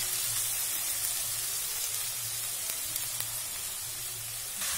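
Pressure-cooked grated carrots sizzling in hot ghee in a kadhai, a steady hiss as their water hits the fat.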